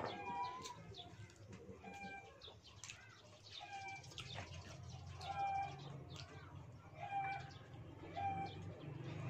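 A bird calling over and over in the background, short level notes about every second or so, with soft clicks and smacks of eating by hand close to the microphone.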